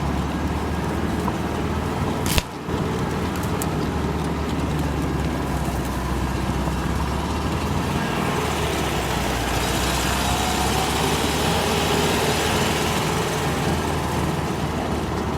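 Homemade all-terrain vehicle with a Zaporozhets air-cooled V4 engine running steadily under way, with one sharp knock about two seconds in. A rushing noise builds from about halfway through.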